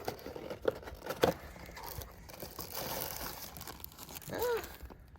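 Hands handling oily filter parts: a few sharp clicks and knocks in the first second and a half, then rustling and crumpling like a rag or paper towel being worked. A short rising-and-falling voice sound comes near the end.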